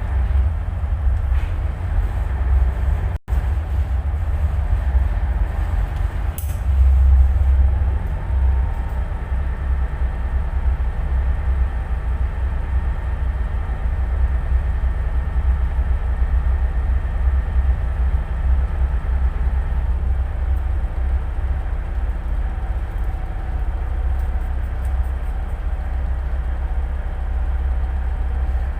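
Tugboat's diesel engine running with a steady low rumble, broken by a momentary dropout about three seconds in.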